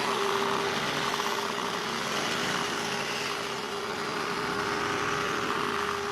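Small single-cylinder engine on a homemade truck frame running steadily, with a constant tone held throughout.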